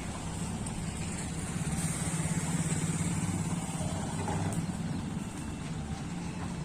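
Kubota tracked combine harvester's diesel engine running steadily, swelling a little about two seconds in and easing off again.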